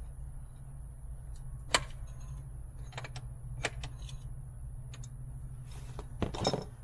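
Scattered clinks and knocks, most likely hand tools and parts being handled, over a steady low hum: one sharp knock about two seconds in, a few lighter clicks after it, and a short clatter near the end.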